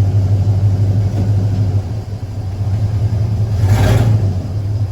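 Engine of a 1961 Chevy Apache pickup truck running with a steady low hum that dips briefly about two seconds in. A short, louder burst of noise comes a little under four seconds in.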